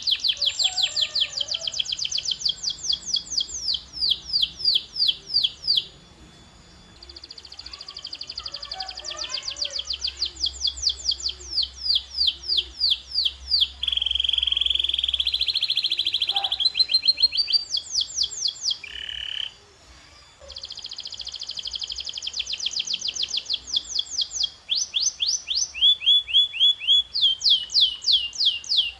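Canary singing: long runs of fast trills, each made of rapidly repeated downward-sweeping high notes, with a held rolling note about halfway through and two brief pauses, about 6 s and 20 s in.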